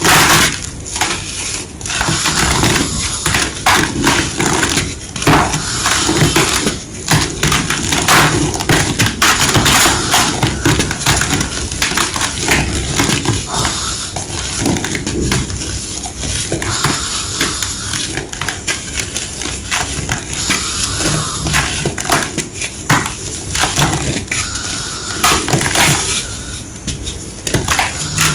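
A big slab of gym chalk being crushed, a steady run of crunching and crumbling with many small cracks and snaps packed close together.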